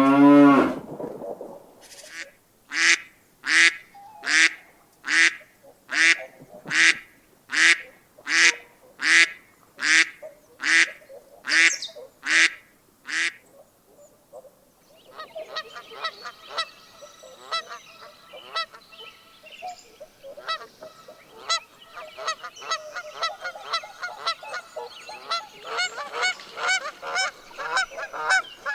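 The end of a cow's moo, then a goose honking over and over, about one call a second for some ten seconds. After a short pause comes a flock of geese chattering, with many quicker, softer, overlapping calls.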